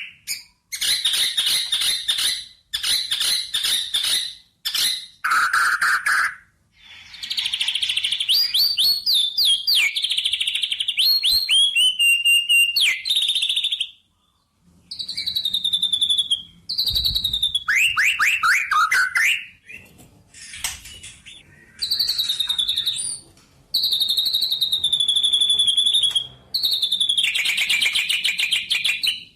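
Birdsong: a string of varied song phrases made of fast trills and quick down-slurred whistled notes, with short pauses between phrases and a longer pause about halfway.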